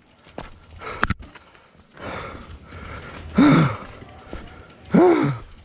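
A man letting out two short, effortful grunts or gasps that fall in pitch, a second and a half apart. There is a sharp click about a second in.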